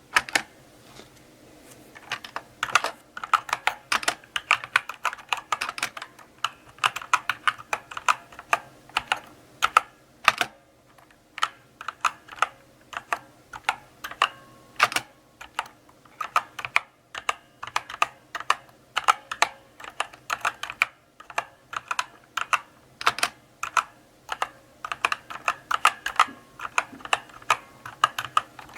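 Slow typing on a mechanical keyboard: irregular key clicks, a few a second, with a couple of short pauses and an occasional louder keystroke.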